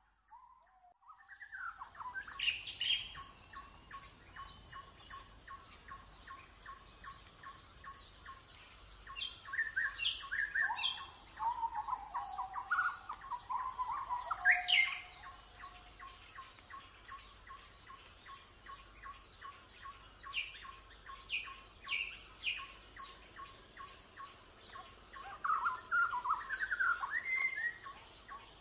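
Several birds calling and chirping, in louder clusters of short rising and falling notes about ten seconds in, around fourteen to fifteen seconds and near the end, over an even, fast ticking call and a thin steady high hum. The sound comes in after about a second and a half of near silence.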